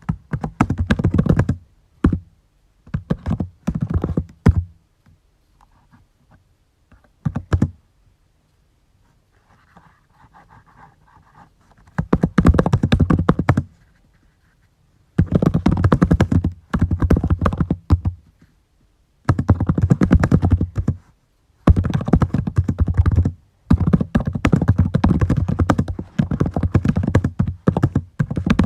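Typing on a computer keyboard in bursts of rapid keystrokes, with a pause of several seconds in the middle before the typing resumes.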